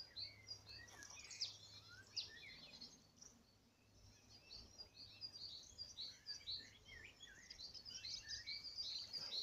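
Small birds chirping and singing all around, many short quick notes overlapping one another, faint, over a low steady hum.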